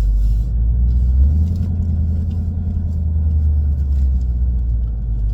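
2017 Mustang GT's 5.0 Coyote V8, fitted with an H-pipe in place of the centre muffler and straight-through resonators in place of the axle-back mufflers, heard from inside the cabin as a deep, resonant drone at low rpm. About a second in, the engine note steps up in pitch and holds as the car pulls away.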